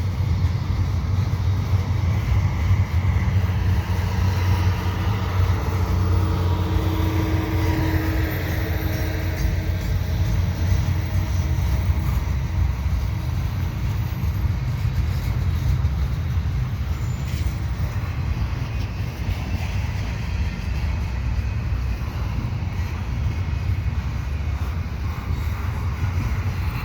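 Double-stack container freight cars rolling past slowly: a steady rumble of steel wheels on rail.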